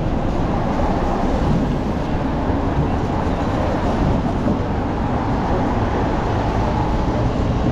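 Steady low rumble of city vehicle traffic, with no single distinct event standing out.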